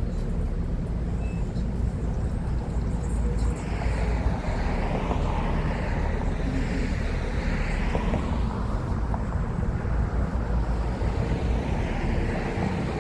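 Road traffic going by, a steady low rumble with cars passing and sweeping by one after another from a few seconds in.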